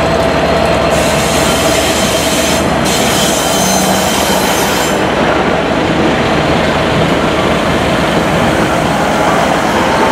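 Class 158 diesel multiple unit running into the platform and passing close by, a steady loud rumble of engine and wheels on rail. A high-pitched hiss or squeal from the wheels lasts a few seconds near the start.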